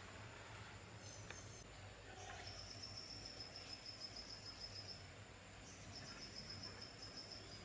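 Faint, high-pitched insect trill in two long pulsing runs with a short break about halfway, over a low steady hum.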